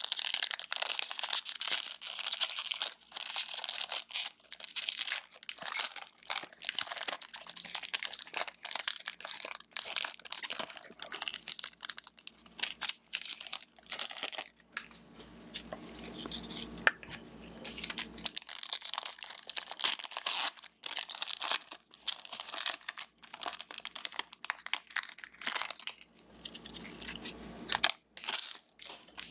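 Crinkling and tearing of plastic and foil wrapping from trading-card packs being opened, an irregular crackle with brief pauses.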